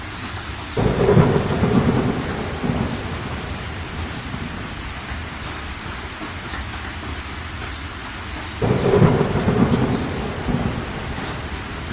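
Steady rain with two rolls of thunder, one about a second in and one near the end. Each starts suddenly, rumbles for about two seconds, then fades back into the rain.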